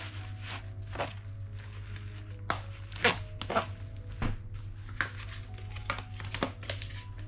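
Kitchen food-prep sounds: a dozen or so irregular knocks and clicks of utensils and food on a work surface, the loudest about three seconds in, over soft background music.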